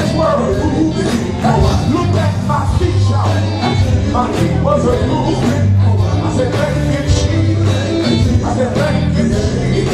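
Live gospel band music with a steady bass line and regular drum beats.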